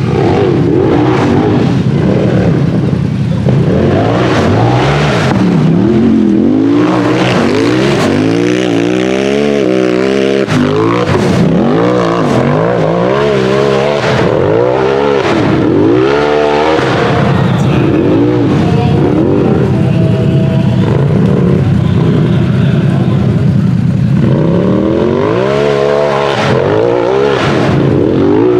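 Turbocharged Polaris RZR buggy engine at full race throttle, revving up and falling back again and again as the throttle is worked hard on a hill-climb course.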